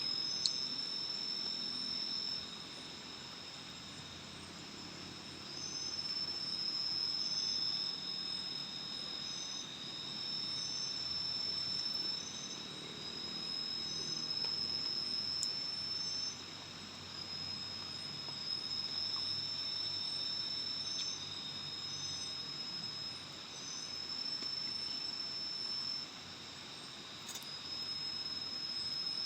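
Night insects trilling: a steady high-pitched buzz, with a shorter, higher chirp repeating about once a second. The chorus swells and drops back every few seconds.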